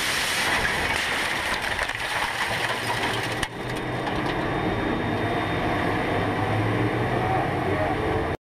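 Racing car noise: a steady rush of engine and track sound, broken by a brief cut about three and a half seconds in and stopping abruptly near the end.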